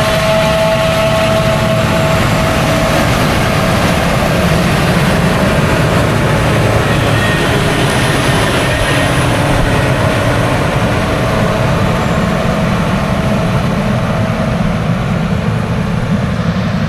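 Farm tractor pulling a disc mower (discbine) cutting alfalfa hay: a loud, steady mechanical din of engine and mower, with a thin steady whine that fades out in the first few seconds.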